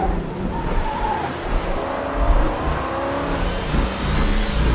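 Car engines running hard and revving in a chase, over a dense low rumble.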